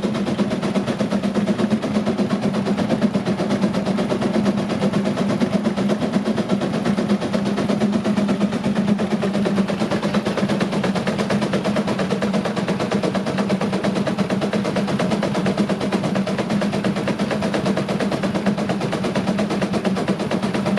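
Russell 13 hp steam traction engine running steadily under load on a water dynamometer: a rapid, even stream of exhaust beats over a steady hum.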